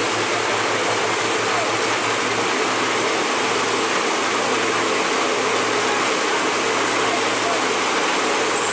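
Steady hiss of rain on the road, with a vehicle engine running underneath.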